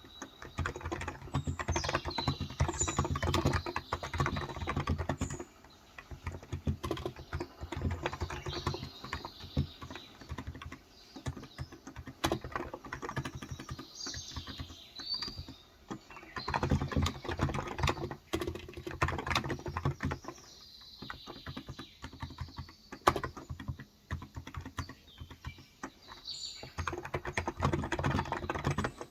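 Fast typing on a Cox Endeavour electro-capacitive tenkeyless keyboard with 35 g switches, the keystrokes coming in bursts with short pauses between them. Birds chirp in the background now and then.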